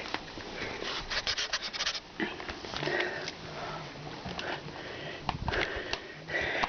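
A kitten scrabbling and rustling at play: scratchy rubbing with quick runs of light clicks, the busiest about a second in and again near the end.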